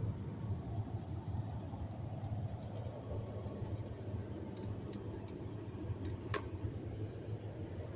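Vehicle engine running at idle with a steady low pulsing hum, from an engine whose owner complains of it coughing and suspects a gas-tank problem. A sharp click a little after six seconds in.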